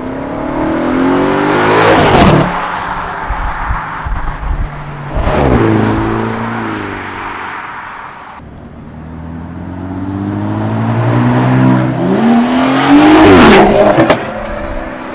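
Modified cars accelerating past one after another: three pass-bys, each engine note climbing as it nears and then dropping away. The last is the longest and loudest, building for several seconds before it passes, with short crackles from the exhaust after it.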